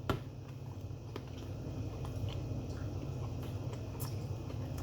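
Close-up chewing and biting of food, with small wet mouth clicks scattered through, over a steady low hum.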